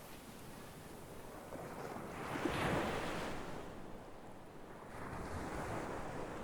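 Sea waves breaking on the shore, a steady wash of surf that swells as one wave breaks about two and a half seconds in and swells again with a smaller one near the end.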